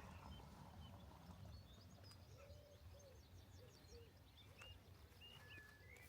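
Faint birdsong: several small birds chirping and whistling short notes, with a few lower calls about halfway through, over a low steady rumble.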